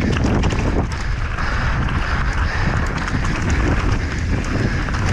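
Wind buffeting the microphone of a mountain bike descending fast, with constant rattling and knocking as the bike crosses rough ground.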